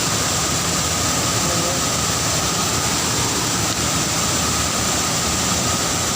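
A large waterfall in strong flow, its water and spray rushing in a steady, unbroken noise.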